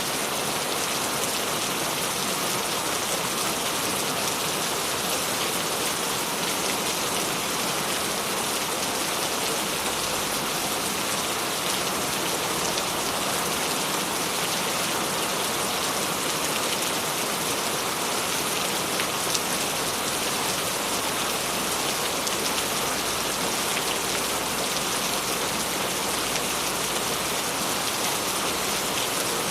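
Steady, even rainfall pattering on a surface, with no thunder or other sounds.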